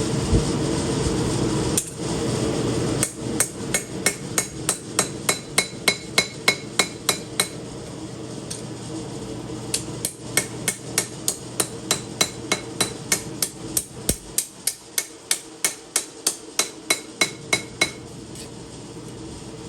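Forging hammer striking steel on an anvil in a steady rhythm of about three blows a second, the anvil ringing on many strokes, while a chef knife blade is forged. The strikes start about three seconds in over a steady hum, pause briefly near the middle, and resume.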